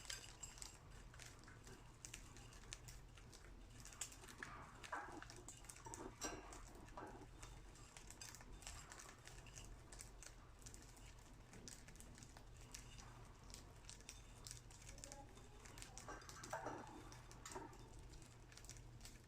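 Budgerigars pecking at and husking millet seeds: faint, irregular small clicks and crackles, busier around a quarter of the way in and again near the end.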